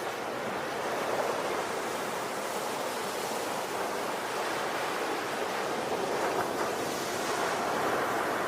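Ocean waves washing onto a shore in a continuous surf, rising and falling slowly in level.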